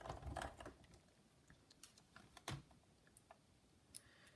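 Light clicks and taps of plastic laptop parts being handled during reassembly of a Dell Inspiron 1545: a cluster of small clicks at the start, then single sharp clicks about two and a half seconds in and near the end.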